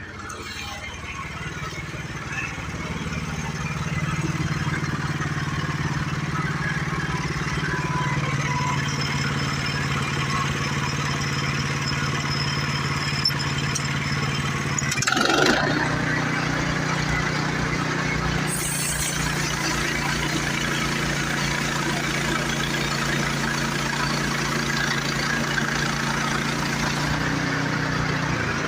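Small gasoline engine of an HM122 portable band sawmill running steadily at constant speed, building up over the first few seconds, with a brief sweeping sound about halfway through.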